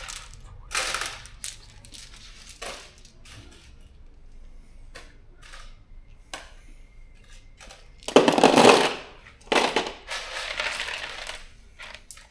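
Steel bolts and washers clinking and rattling as they are handled and dropped into containers, a scatter of small metallic clicks with a louder clatter lasting about a second about eight seconds in.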